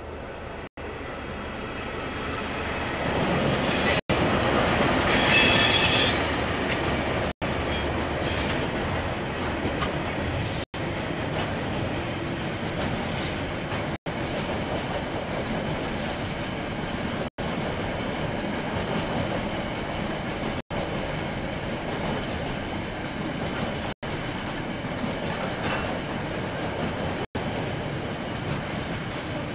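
KiwiRail train passing on the rails, its noise building over the first few seconds, with a brief high squeal about five seconds in, then steady rolling noise of the wagons going by.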